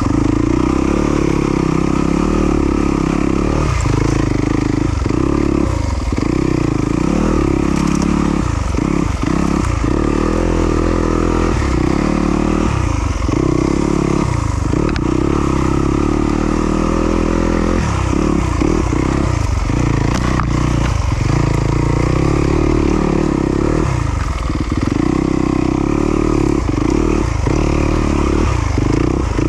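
Yamaha YZ250FX's 250 cc single-cylinder four-stroke engine running hard under constantly changing throttle, the revs rising and falling with frequent brief drops as the rider goes on and off the gas.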